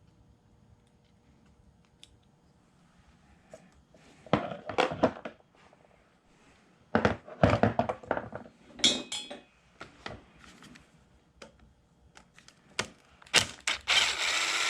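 Hand tools knocking and clattering against metal engine parts in several short bursts, with a ringing metal clink about nine seconds in and a rougher scraping rattle near the end.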